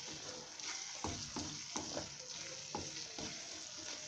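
Onion-tomato masala sizzling in oil in a frying pan while a spoon stirs it, with several short scrapes and knocks of the spoon against the pan.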